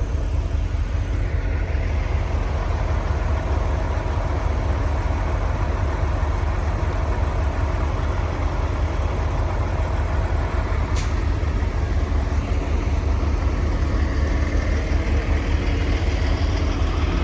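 Semi-truck diesel engine running steadily with a deep, even rumble and a faint hum, heard from the truck.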